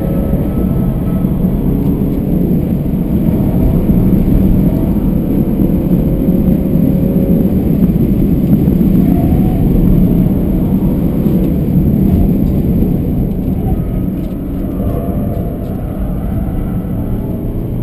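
BMW F31 320d's four-cylinder turbodiesel engine under hard track driving, heard inside the cabin over heavy tyre and road noise, its note rising and falling as the car accelerates and corners. The sound eases off somewhat about fourteen seconds in.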